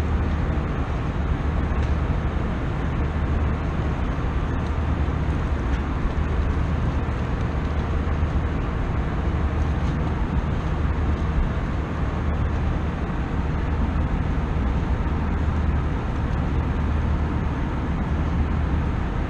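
Steady cabin noise of an Airbus A320 airliner: the even rush of engines and air with a constant low hum underneath.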